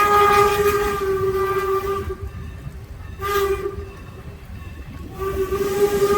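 Steam whistle of Norfolk & Western No. 475, a 4-8-0 steam locomotive, blowing a long blast, then a short toot, then another long blast beginning about five seconds in, over the low rumble of the moving train.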